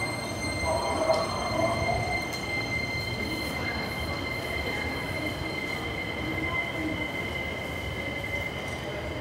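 Hankyu electric train at the platform: a low rumble under steady high-pitched whining tones that hold unchanged, with a brief swell about a second in.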